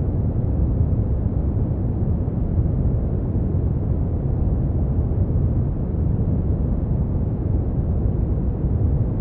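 Brown noise: a steady, deep rumbling hiss, strongest in the low end and dull above, unchanging throughout.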